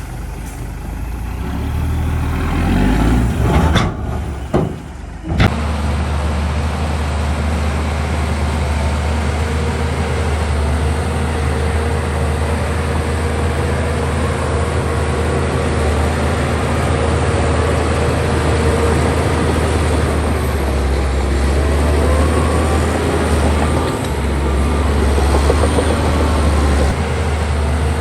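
Heavy diesel engine of earth-moving machinery running steadily, with a brief drop in level and a sharp knock about five seconds in.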